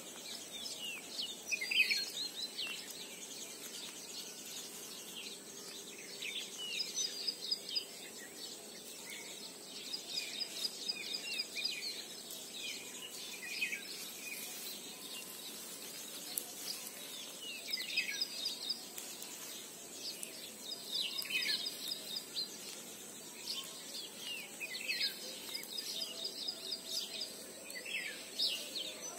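Wild birds singing and calling: repeated short high chirps, quick downward-sweeping notes and rapid trills, coming in clusters every few seconds over a steady outdoor hiss.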